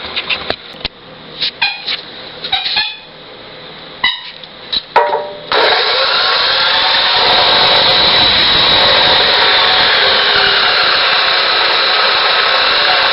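A few short clicks and clatters of steel being handled, then about five and a half seconds in a power cutting tool starts suddenly and runs steadily with a high whine, cutting through 1-inch square steel tubing.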